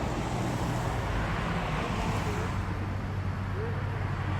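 Road traffic and vehicle noise: a steady wash of passing-car sound with a steady low engine hum underneath.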